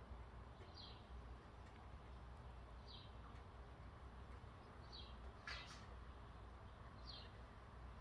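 A small songbird repeating a short, high, falling call about every two seconds, faint, with one louder, sharper chirp about five and a half seconds in. A faint steady low rumble runs underneath.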